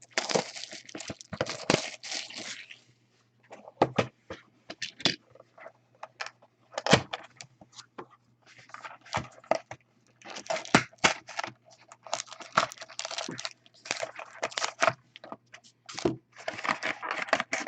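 Plastic shrink wrap being torn and crinkled off a cardboard trading card box, then the box being opened and packs handled, with many light taps and clicks among the rustling.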